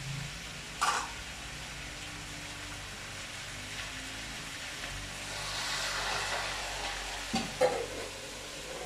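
Tofu frying in hot oil: a steady sizzle that swells about halfway through. A couple of short clinks of cookware, about a second in and again near the end.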